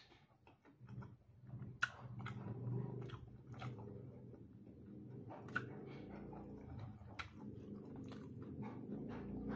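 Close-up mouth sounds of a person chewing fried chicken: scattered wet clicks and smacks. A low steady hum runs underneath from about a second in.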